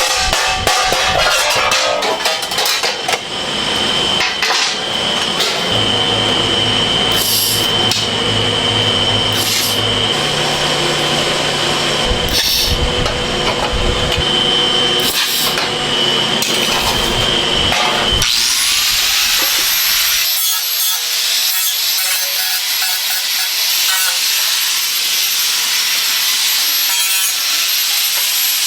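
Power tool working material with steady, loud noise and a thin steady tone. About 18 seconds in the sound turns higher and thinner as a whine climbs and then holds at a high pitch.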